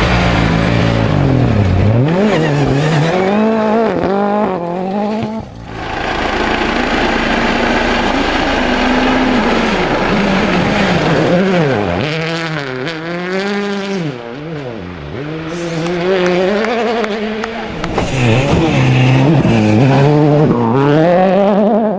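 World Rally Car engines revving hard, the pitch climbing and dropping sharply again and again through gear changes and lifts, with a short break about five seconds in.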